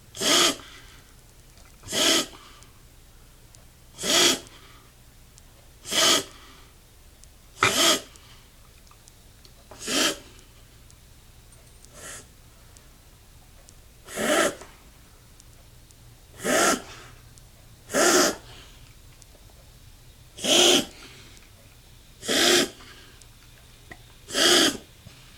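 An 11-year-old dog coughing: short harsh bursts about every two seconds, thirteen in all, one much fainter near the middle.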